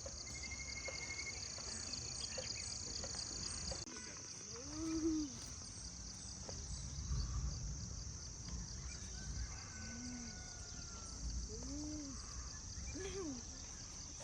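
Insect chorus buzzing in a steady, pulsing drone that drops away about four seconds in. A few short rising-and-falling calls sound later, four or five of them.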